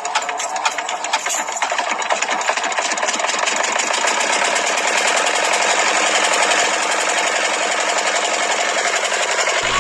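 A small motor in a homemade model engine running with a fast, even rattle. It starts as rapid clicks and grows louder over the first few seconds, then holds steady.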